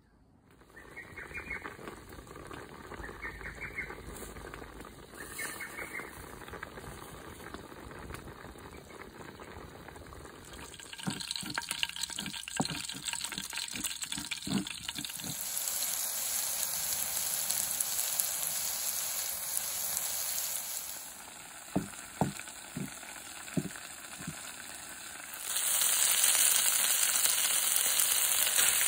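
Cooking sounds: a pestle knocking and grinding in a stone mortar in two short runs of thuds, with a steady hiss between them. Near the end a much louder sizzle sets in as sliced bamboo shoots go into hot oil and spice paste in a wok.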